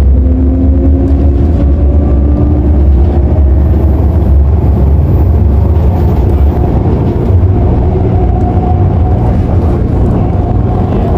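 Running noise inside an MTR Airport Express CAF train carriage: a loud, steady low rumble, with a faint whine that rises slowly in pitch over the first few seconds and then fades.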